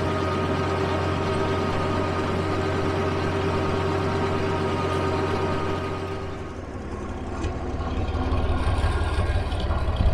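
Tractor engine running steadily. About six seconds in, the sound changes abruptly to a rougher, pulsing low engine rumble.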